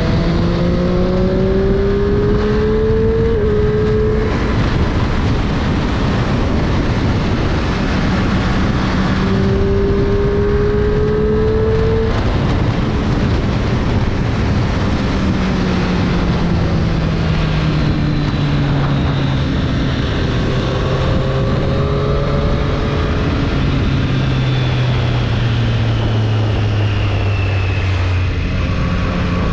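Triumph Street Triple 765 RS's 765 cc inline three-cylinder engine under way. It accelerates hard twice in the first dozen seconds, changing up a gear about three seconds in. From about the middle onward the revs fall slowly as the bike slows, then pick up again near the end.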